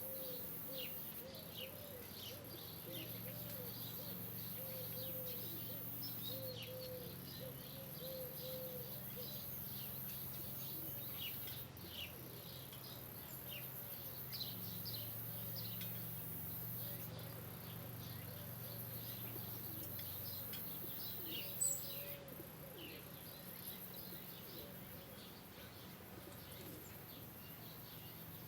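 Birds chirping outdoors, many short, quick, downward-sliding chirps throughout, with a lower warbling call in the first several seconds. A low steady hum runs beneath.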